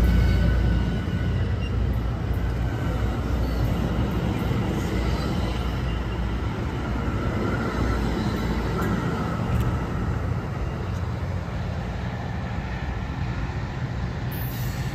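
MARC commuter train's bilevel passenger cars rolling past and pulling away: a steady rumble of steel wheels on rail that slowly fades, with a faint wheel squeal in the middle.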